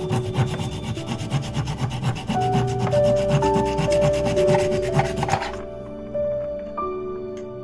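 A saw cutting through wood in quick, rasping strokes over soft background music of sustained, piano-like notes. The sawing stops about five seconds in, leaving the music alone.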